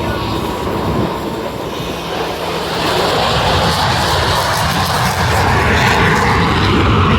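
Jet aircraft flying past, its engine roar growing louder about two and a half seconds in and dropping in pitch as it goes by.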